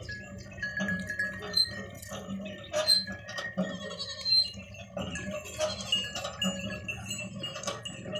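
Small bells tinkling on and off, with scattered light clinks and knocks.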